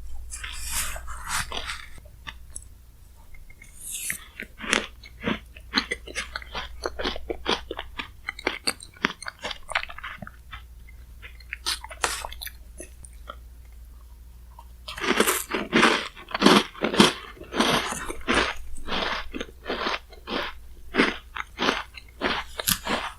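Close-miked chewing and crunching of chocolate-cookie shaved ice (bingsu), made up of many short crackly bites. The crunches grow denser and louder about fifteen seconds in.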